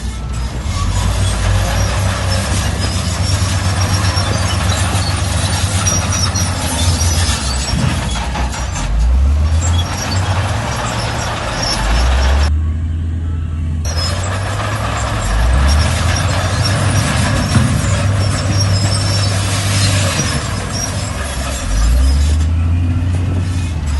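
Diesel engine of heavy earthmoving machinery working under load, its pitch rising in a surge four or five times, with a constant rough, grinding noise over it that cuts out briefly about halfway through.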